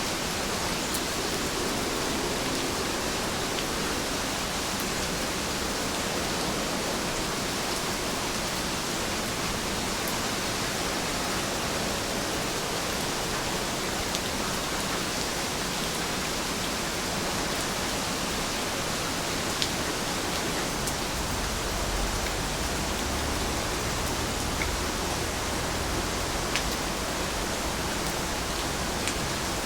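Steady rain falling, an even hiss with a few separate drop ticks. A low rumble joins in about two-thirds of the way through.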